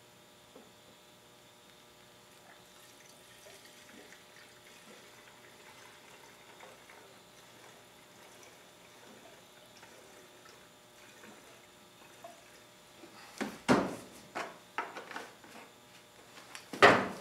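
Gasoline being poured faintly from a can into a lawn mower's fuel tank, followed near the end by several loud clunks and knocks.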